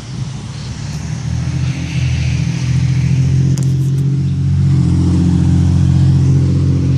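An engine running with a steady low hum that grows louder over the first three seconds, then holds steady.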